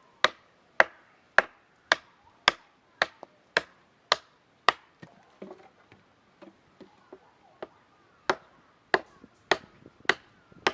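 Axe chopping wood with sharp, regular blows about two a second. The blows give way to a few lighter taps for a couple of seconds in the middle, then resume.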